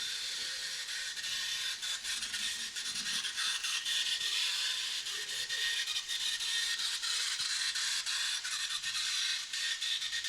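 Model train running on its track: a steady small electric motor whir with many fine clicks from the wheels on the rails.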